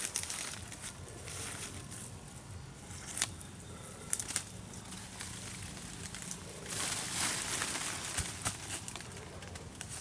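Crinkling, rustling handling noise, with two sharp clicks a few seconds in and a denser stretch of rustling past the middle.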